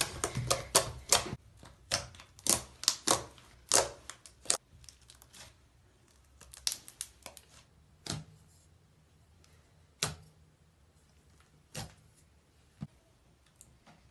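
Hands forcefully pressing and squashing a thick, glossy slime, making sharp wet clicks and pops. A fast run of clicks comes in the first few seconds, then a short cluster, then single pops every second or two.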